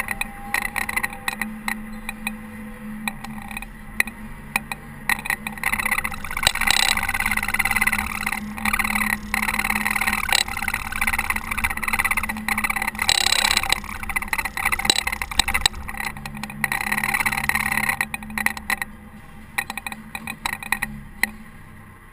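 Caterpillar TH330B telehandler running while plowing snow: a steady engine hum under noisy clatter and rattling, dropping in level near the end.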